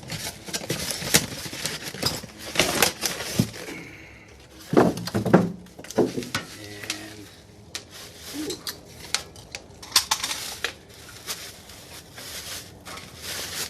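Sink packaging and accessories being handled during unboxing: irregular clicks, knocks and light clinks with rustling and scraping between them.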